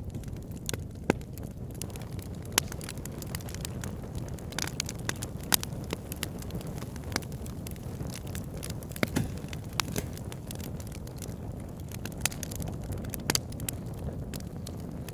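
Wood fire burning in a fireplace: a steady low rumble of flame with irregular sharp crackles and pops, a few of them louder.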